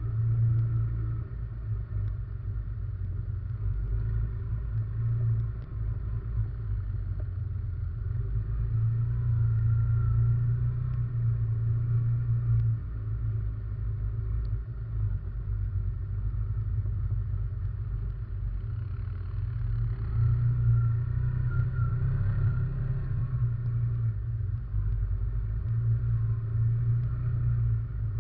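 Russian Mechanics RM 500 ATV engine running under way, heard up close from a camera mounted on the quad, its low rumble swelling and easing with the throttle.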